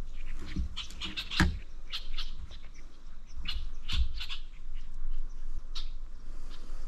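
Small birds chirping, many short high calls scattered throughout, with two dull knocks about one and a half and four seconds in.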